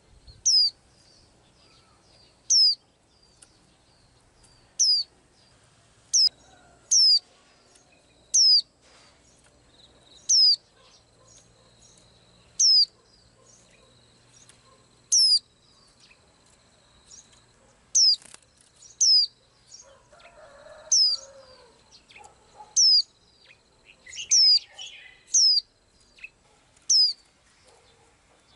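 A small pet bird repeating one short, high, steeply falling chirp, one every second or two, with the calls coming closer together near the end.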